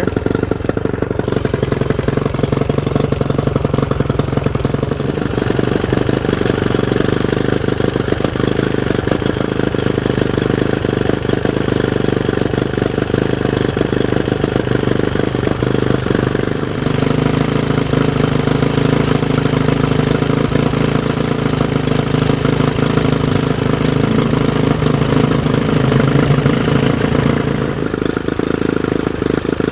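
1999 Johnson 25 hp two-stroke outboard motor running steadily at idle, its note shifting slightly a few times.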